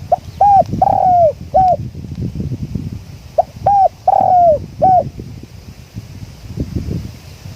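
Spotted dove cooing: two repeats of the same four-note phrase of short arched coos with one longer falling note, about three seconds apart. Wind buffets the microphone underneath.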